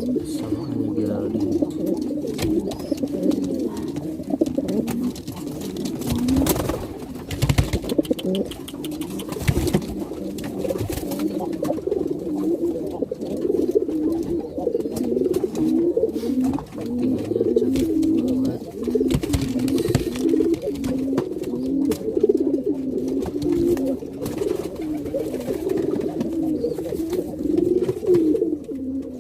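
Domestic pigeons cooing almost without a break, low warbling coos overlapping one another: the courtship cooing of a cock pigeon driving his hen. A few sharp knocks come about a quarter of the way through.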